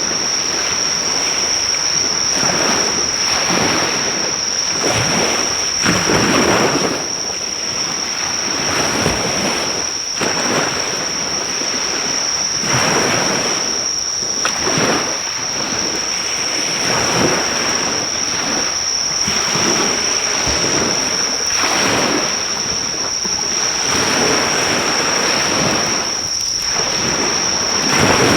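Surf washing on a beach in slow swells, with a loud, steady, high-pitched insect drone throughout. A driftwood campfire crackles faintly underneath.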